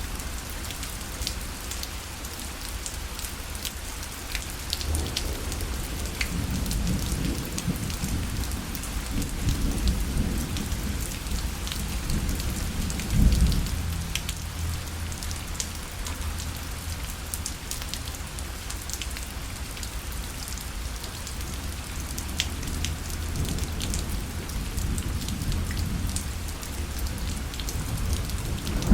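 Steady rain pattering on a parasol, with many separate drop taps. A low rumble of thunder swells and peaks about halfway through.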